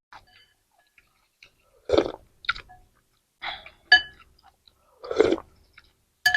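Close-up eating sounds: a person chewing mouthfuls of noodles and side dishes, in separate short bursts about a second apart, some with a brief ringing clink.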